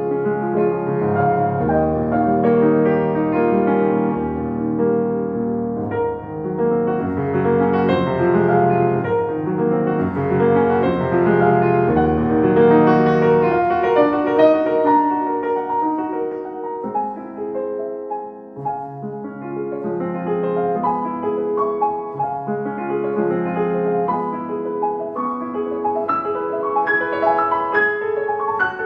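Solo piano music, instrumental, with a short softer passage about two-thirds of the way through.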